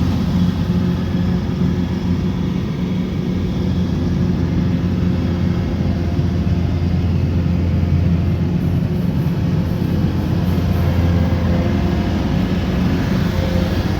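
Kubota combine harvester's diesel engine running steadily, a constant low drone with no change in pitch or speed.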